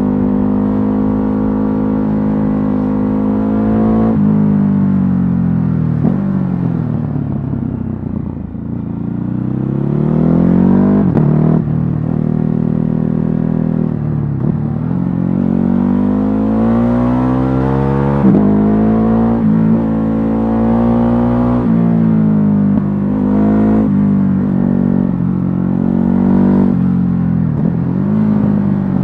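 Ducati Hypermotard 950's L-twin engine, stock exhaust, riding on the road: the pitch climbs and drops again and again as it accelerates through the gears and eases off. It falls lowest and quietest about eight seconds in, then pulls up again.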